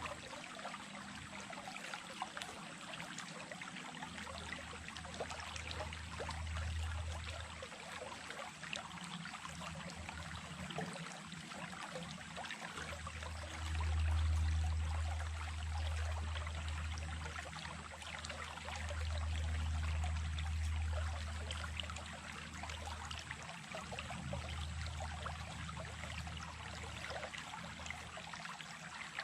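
Small stream running and babbling steadily, with a low rumble that swells twice around the middle.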